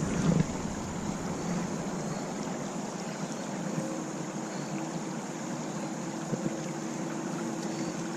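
Steady rushing noise of water outdoors, with a couple of faint knocks about six seconds in.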